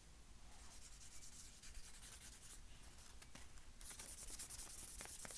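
Drawing on paper: a pen or pencil tip scratching in quick, short strokes, louder from about four seconds in.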